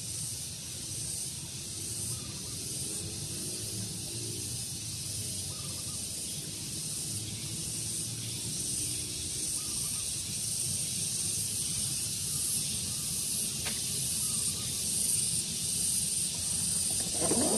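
Daytime outdoor ambience: a steady high hiss over a low breeze rumble, with faint scattered bird chirps and a brief louder call near the end.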